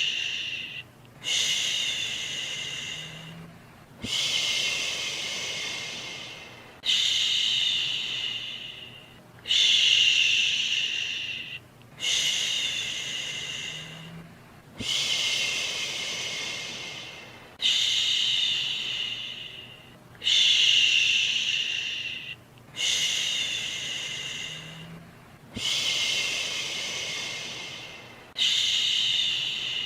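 A soothing 'shhh' shushing sound repeated in a steady loop, each shush starting sharply and fading away over about two seconds, roughly every two and a half seconds, over a faint steady noise bed.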